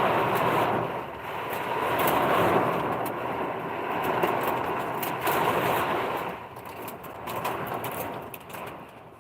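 Heavy rain pouring down, swelling and easing in waves, with many sharp ticks of drops or hail striking close by. It grows quieter over the last few seconds.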